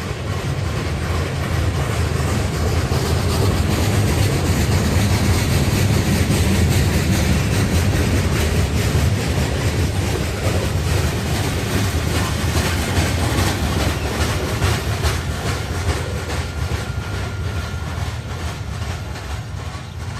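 Norfolk Southern freight train rolling past: a heavy low rumble of wheels on rail that swells to its loudest a few seconds in, then slowly fades while the cars click steadily over the rail joints.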